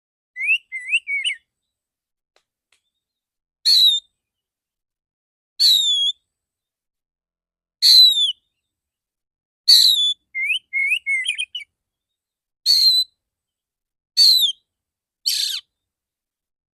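Male oriental magpie-robin singing in the loud, clear 'tembakan' style: sharp whistled notes, each falling in pitch, repeated about every two seconds. Short runs of quick rising twitter notes come near the start and again about ten seconds in.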